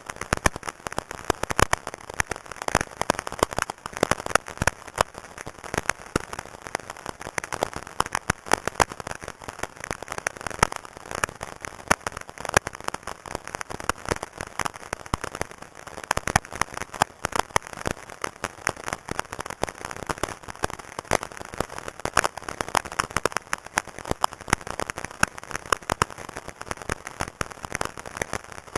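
Walkie-talkie static: a steady, dense crackle of irregular pops and clicks over radio hiss.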